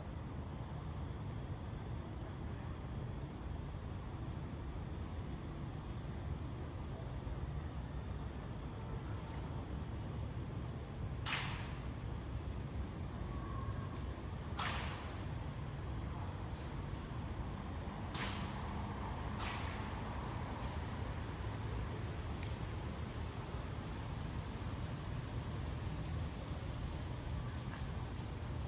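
An insect chirring steadily in a high, fast-pulsing trill over a low, even rumble of street ambience. Four sharp clicks sound in the middle, two of them close together.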